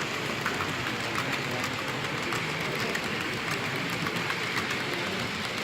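Model train running on an exhibition layout: a steady rolling rush with many small rapid clicks from the wheels on the track.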